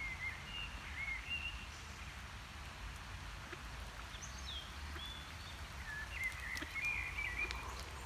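Small birds calling in short, thin warbling phrases: one in the first second or so, another around four seconds in, and a longer one near the end, over a steady low rumble.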